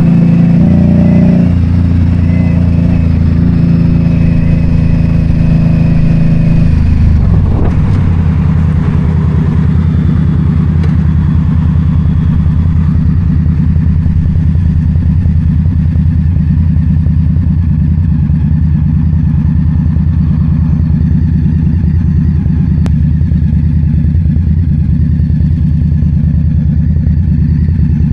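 Motorcycle engine running steadily under way. Its note shifts lower about seven seconds in, as with a gear change or easing off the throttle, then holds even.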